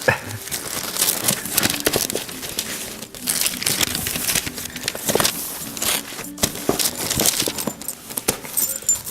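Wrapping paper and a cardboard gift box crinkling and tearing as a dog rips at them and pulls at the contents with her mouth: dense, irregular rustling and crackling.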